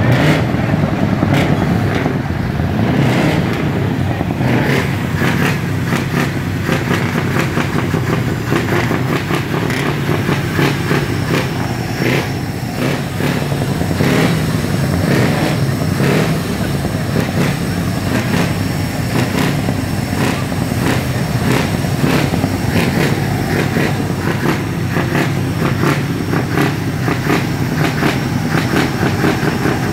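Scania V8 diesel truck engines running loud and without a break, with many short sharp accents on top.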